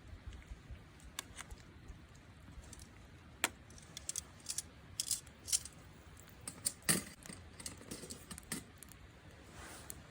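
Scattered light clicks and clinks of small hard objects being handled, irregular, with the loudest about seven seconds in.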